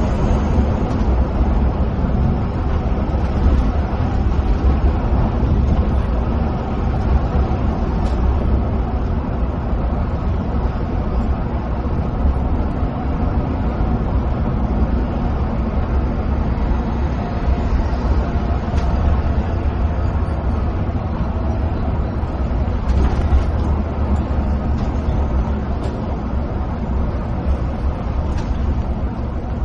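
Steady cabin sound of an intercity coach cruising at speed on a highway: a continuous low engine drone mixed with tyre and road noise, heard from the driver's seat.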